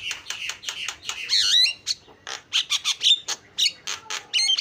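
Javan myna (jalak kebo) in full song: a rapid chatter of harsh squawks and clicks mixed with short whistled notes that swoop up and down.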